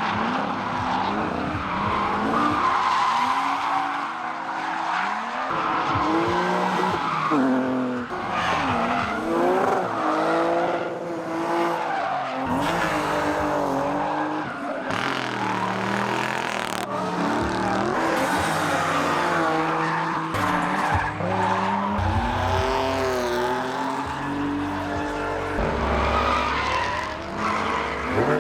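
Drift cars sliding, their engines revving up and down in rapid swells on and off the throttle, with tyres squealing and skidding throughout.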